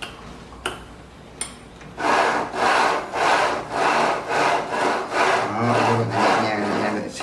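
Repeated back-and-forth rubbing strokes, about one and a half a second, starting about two seconds in, from a CNC Z-axis carriage being pushed up and down along its linear rails so that it self-aligns before its bolts are tightened. A few light clicks come before the strokes.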